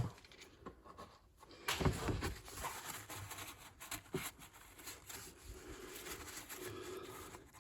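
Faint, scattered clicks, knocks and light scraping of hand tools and parts being handled at an engine's intake.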